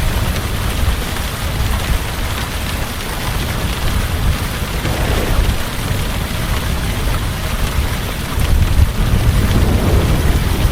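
Heavy rain falling steadily, over a low rumble of thunder that swells near the end.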